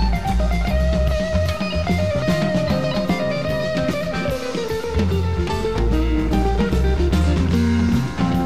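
Band music: guitar over bass and a drum kit keeping a steady beat, with a long held lead note that slides down about halfway through.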